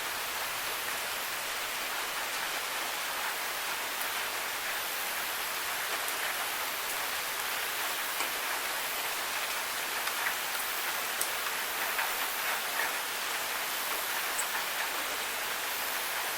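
Steady rain falling, an even hiss with scattered sharp ticks of individual drops, a few more of them in the second half.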